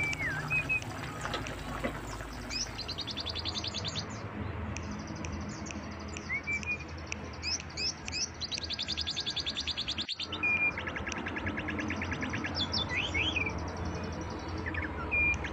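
Songbirds chirping and whistling, with several fast trills, over a faint low hum; the sound breaks off for an instant about ten seconds in.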